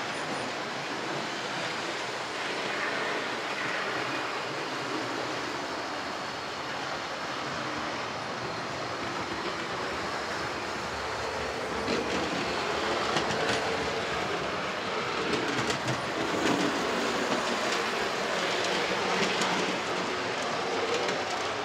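00 gauge model trains running on the layout's track: a steady running hum from the small electric motors and wheels, with scattered sharp clicks in the second half.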